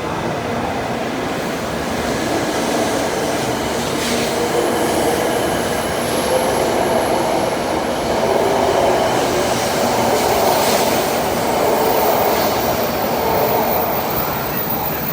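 Doctor Yellow, a 923 series Shinkansen inspection train (set T4), pulling out of the station. Its cars rumble steadily past on the rails, growing a little louder about halfway through.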